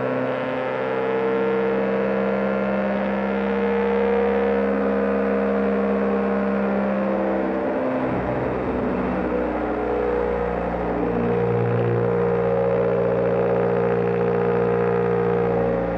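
BMW GS Adventure motorcycle engine running steadily at road speed, with wind and road noise. About halfway through, a burst of noise breaks in and the engine's pitch shifts, then holds steady again.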